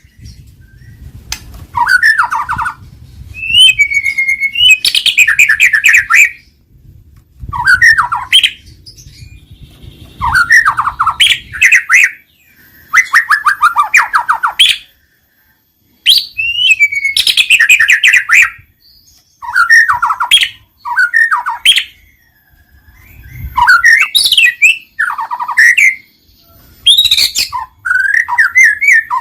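White-rumped shama (murai batu) singing: loud, varied song phrases made of quick trills and rapid runs of whistled notes, coming in bursts of one to two seconds with short pauses between them.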